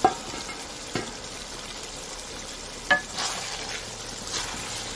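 Potatoes and peas sizzling in an aluminium kadhai while a wooden spatula stirs them, with three sharp knocks against the pan: one right at the start, one about a second in, and one just before three seconds that rings briefly.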